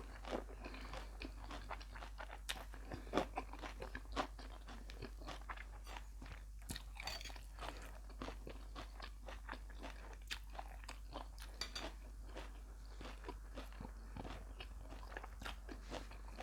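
A person chewing beef larb close to the microphone: wet chewing with many quick, irregular crunchy clicks.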